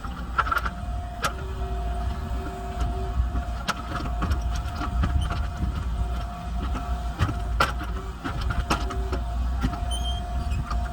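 Kubota KX033 mini excavator's 25 hp diesel engine running under load, with a thin whine that comes and goes and several sharp knocks as the bucket works the debris.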